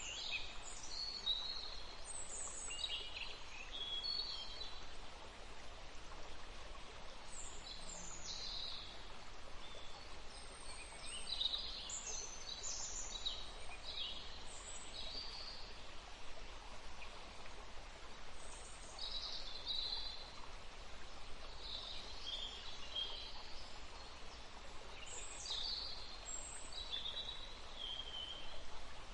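Several songbirds chirping and singing in short, high phrases scattered through the whole stretch, over a steady background hiss.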